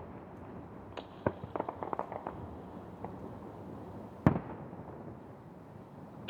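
Aerial fireworks bursting: a few sharp pops and a quick run of crackles in the first two seconds, then one loud shell burst about four seconds in.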